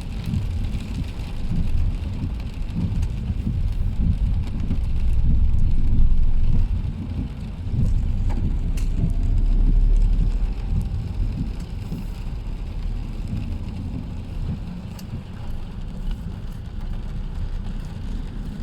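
Heavy rain falling on a car, over the low rumble of the car running, heard from inside the cabin.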